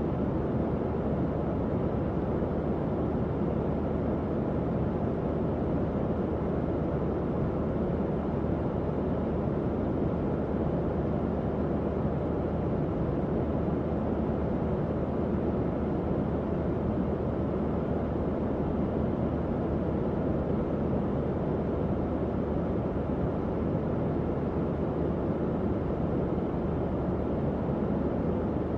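Tower fan running steadily: an even airflow whoosh, mostly low and mid in pitch, with a faint low motor hum underneath.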